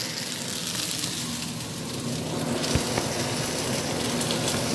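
Chicken and broccoli sizzling steadily in a hot pan, with a single knock just past the middle.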